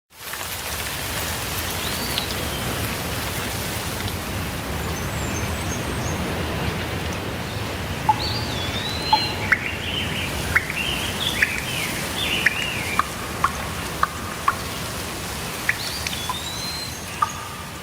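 Steady rain with birds singing over it: a whistled phrase that rises and falls, a run of quick sweeping chirps midway, and the whistled phrase again near the end. Sharp drips land now and then from the middle on.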